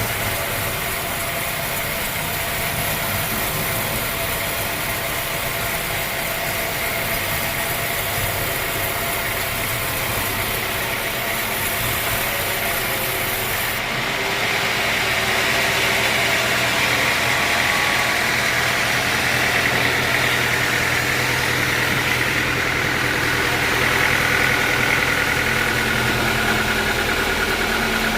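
Sawmill machinery running steadily, an engine-like drone with a few steady tones over a haze of noise. About halfway through the sound changes and gets a little louder, with a higher tone coming in.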